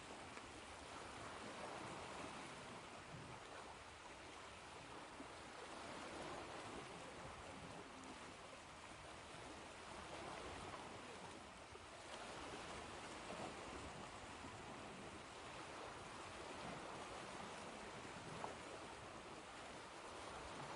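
Ocean waves washing on a shore: a soft, steady rush of surf that swells and eases gently every few seconds.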